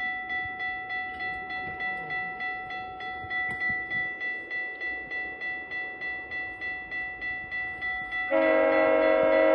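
Crossing warning bell dinging about three times a second; about eight seconds in, a GO Transit commuter train's horn starts a loud, sustained chord as the train approaches the crossing.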